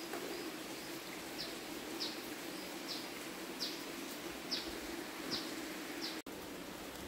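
A bird repeating a short, high, falling chirp roughly once a second over a steady low background hum. The sound drops out for an instant near the end.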